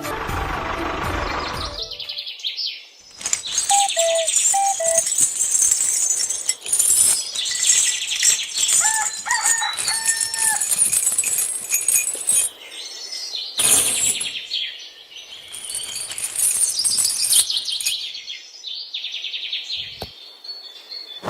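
A low rumbling sound stops about two seconds in. After it, small birds chirp and chatter, with a few short whistled notes.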